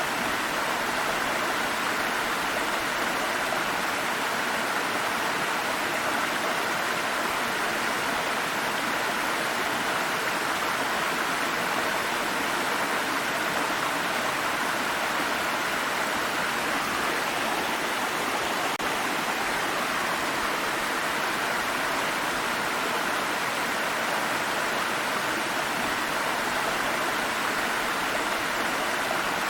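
Water stream running steadily over rocks, a continuous even rush of flowing water.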